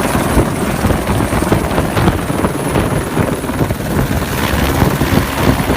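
Helicopter sound: rotor blades chopping rapidly over a steady engine drone, loud and unbroken.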